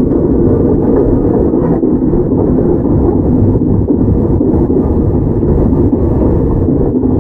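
Onboard running sound of a Toyama Chiho Railway 17480 series electric train (a former Tokyu 8090 series car): a steady, dense rumble of wheels on rail and the car body while the train runs between stations.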